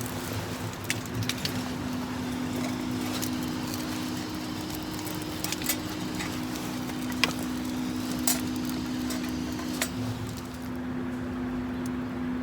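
Wood fire crackling, with scattered sharp pops, over a steady low hum.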